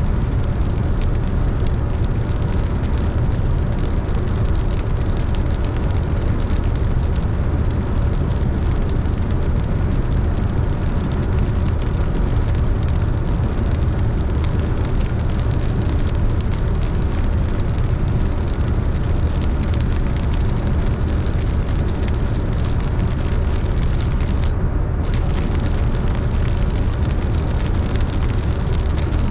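Car driving on a wet road in the rain: a steady low rumble of road and engine under the hiss of rain and wet tyres. The higher hiss cuts out for a moment near the end.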